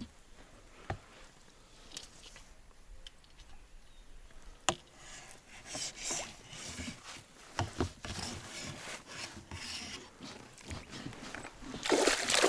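Rustling and scraping of fishing gear being handled in a small boat, with scattered knocks, a sharp one about five seconds in. The handling gets louder and busier near the end.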